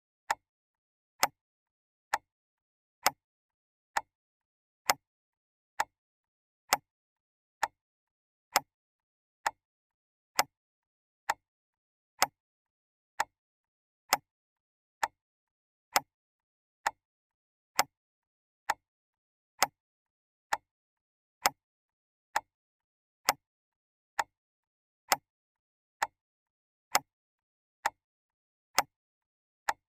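Clock ticking: sharp, evenly spaced ticks a little faster than one per second, with dead silence between them.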